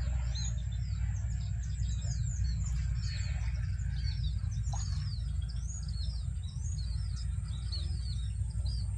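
Many small birds chirping rapidly and continuously, short quick twittering notes, over a steady low rumble of wind on the microphone.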